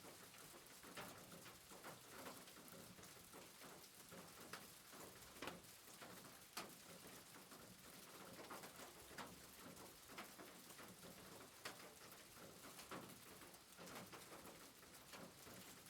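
Faint soft rain: a steady hiss with scattered light taps of drops at irregular intervals.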